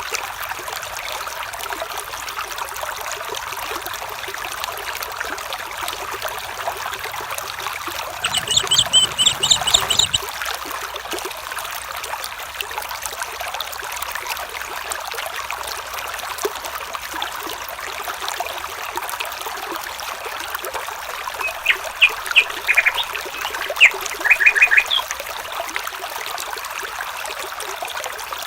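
A stream trickling steadily, with bursts of rapid chirping calls about eight seconds in and again several times near the end.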